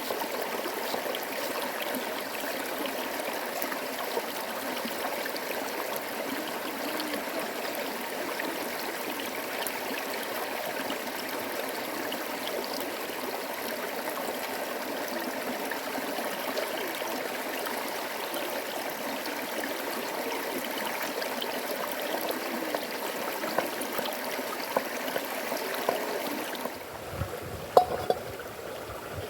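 A stream running steadily. Near the end the water sound drops away and a couple of sharp knocks are heard.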